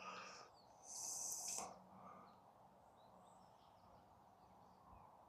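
Near silence, with a faint brief hiss of noise about a second in.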